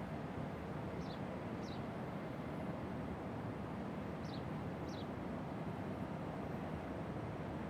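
Steady low rumbling noise, with short high chirps that fall in pitch: two about a second in and two more about four and a half seconds in.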